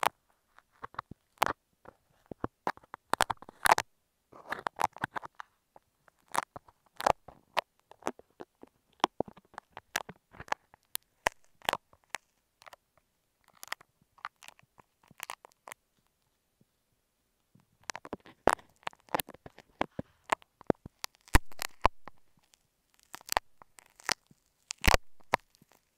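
Close-miked crackling and sharp clicks as a clump of fake apple snail eggs is picked and pried off an earphone microphone, in irregular bursts that pause for about two seconds roughly two-thirds of the way through.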